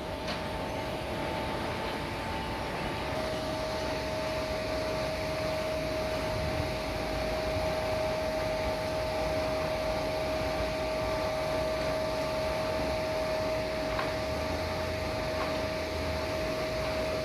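A motor running steadily, with a constant whine over an even rushing noise.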